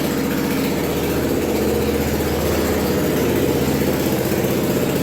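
Predator 420cc single-cylinder OHV gas engine of a homemade four-wheeled motorcycle, running steadily at a low, even speed.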